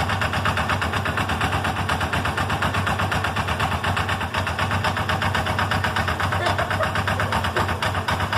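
Multi-carburetor motorcycle engine idling with a steady, fast, even pulse. Its carburetors are out of tune and it is running rich, getting too much gas.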